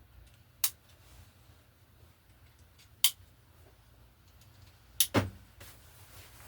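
Buckles on the straps of chainsaw safety chaps clicking shut as they are fastened: single sharp clicks just under a second in and about three seconds in, then two quick clicks close together near the end.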